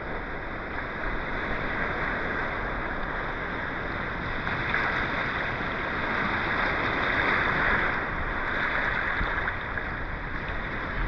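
Steady rushing of moving water, swelling louder and easing off a couple of times.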